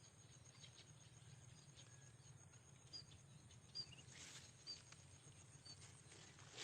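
Faint outdoor quiet with a small bird giving short, high chirps about once a second from about halfway through, and a few soft rustles.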